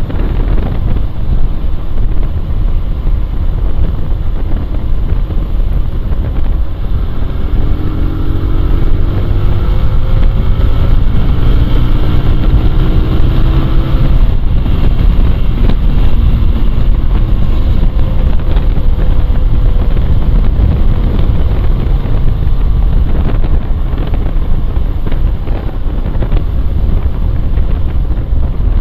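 Wind rushing over the microphone of a moving motorcycle, with the engine note rising in pitch for several seconds as the bike speeds up, about a third of the way in.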